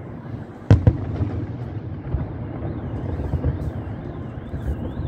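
Fireworks salute: two sharp booms of shells bursting close together about a second in, then a continuous low rumble with scattered smaller pops.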